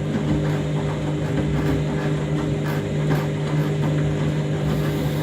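Washing machine in its wash cycle, the motor tumbling a heavy, overloaded wash load in the drum with a steady hum.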